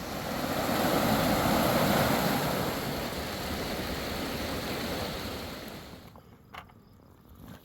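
Rushing water of a fast river, a steady roar that swells over the first two seconds and fades out about six seconds in, followed by a few faint clicks.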